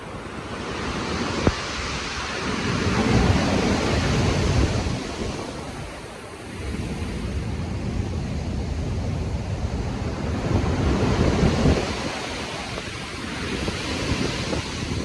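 Storm-driven ocean waves breaking and washing in, with wind; the surf swells to two loud peaks, a few seconds in and again about eleven seconds in, easing between them.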